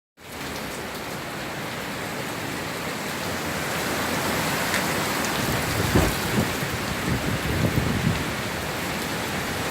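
Heavy hurricane rain and wind, a dense steady downpour that swells slowly louder, with a few low gusty thumps about six seconds in and again a second or two later.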